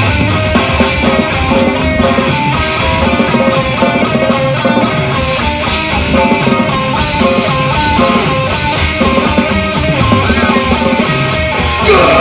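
Death metal band playing live: distorted electric guitar riffing over fast drums. A long held note comes in right at the end.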